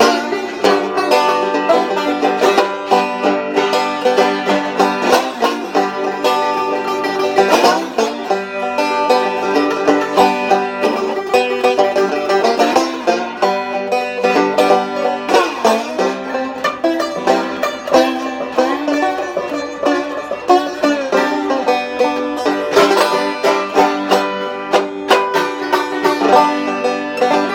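Banjo being picked: a steady, unbroken run of plucked notes.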